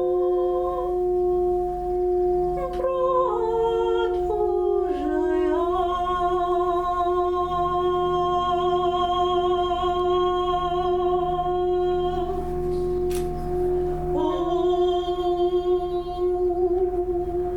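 A singing bowl rings with a steady tone throughout, under a wordless sustained vocal tone. The voice slides down in pitch a few seconds in, holds with a slight waver, drops out briefly, then returns near the end.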